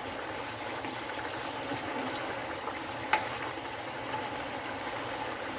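Chicken curry simmering and bubbling in the pan as its liquid reduces and thickens, a steady sound with one sharp click about three seconds in.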